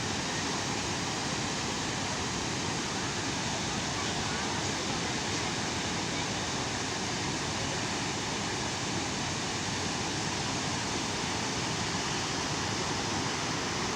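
Steady rush of a large waterfall, Chitrakote Falls on the Indravati River: an even wash of falling water with no change in level.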